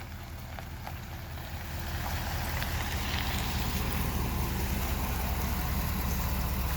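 Pickup truck's engine running, growing louder about two seconds in as the truck drives into mud, with a rushing noise over the engine.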